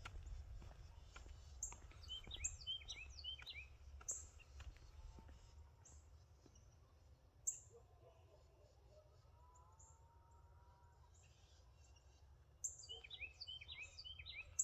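Faint morning countryside chorus: small birds chirping in quick clusters and single sharp chirps, with faint drawn-out calls of distant farm animals in the middle, over a steady low rumble.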